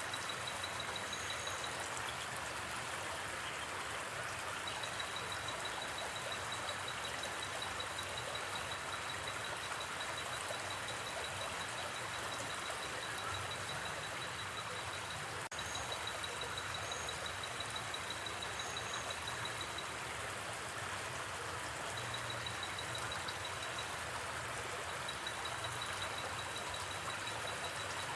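Gently flowing river water making a steady rushing noise, with a high, rapidly pulsing trill that comes and goes through it.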